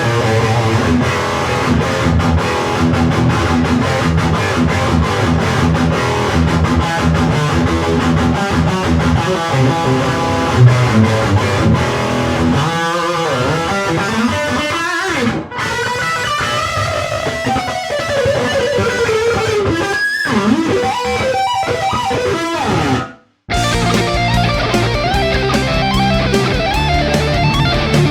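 Electric guitar played through an EVH 5150 III amplifier. Low chugging riffs give way in the middle to a lead line with bends and slides. The playing cuts off briefly about two-thirds through, then the riffing resumes.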